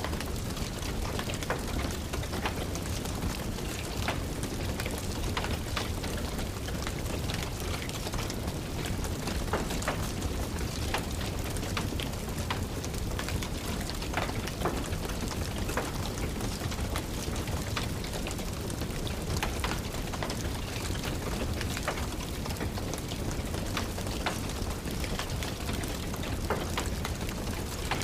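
Steady rain falling, mixed with the irregular sharp crackles of a wood fire burning in a fireplace.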